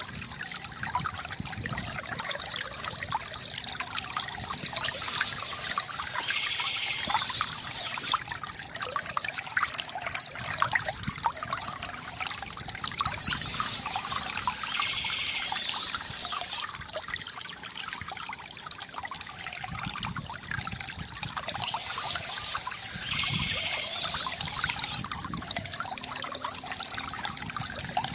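Stream water trickling and babbling steadily, with birds singing; a brighter, high-pitched stretch of song comes back about every nine seconds.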